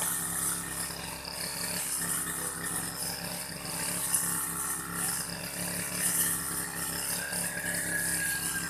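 Engine of an old grass-cutting machine running steadily.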